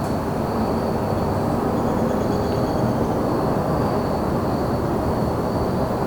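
Steady low rumble of distant traffic, with crickets trilling on one continuous high note. A faint high bird note comes about two seconds in.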